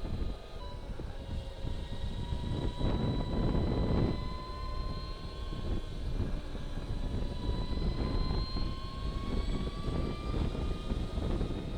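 Energica Experia electric motorcycle under way: the high whine of its electric drivetrain, drifting gently up and down in pitch with road speed, over low wind rumble.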